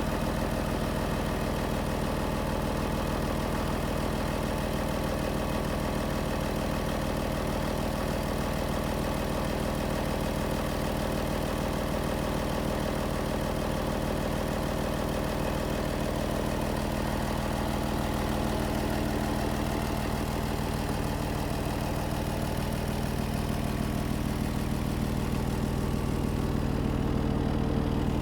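Scania P112 truck's 11-litre straight-six diesel engine idling steadily.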